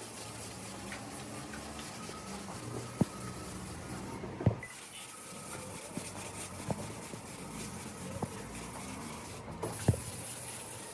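Five or so sharp knocks, irregularly spaced a second or two apart, over a steady low hum.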